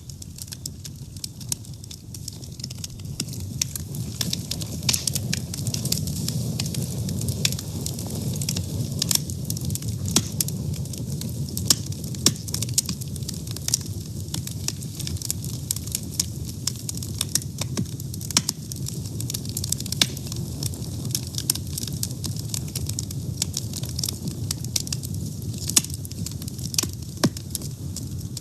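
Fire burning with a steady low rumble of flames and frequent sharp crackles and pops, growing a little louder over the first few seconds.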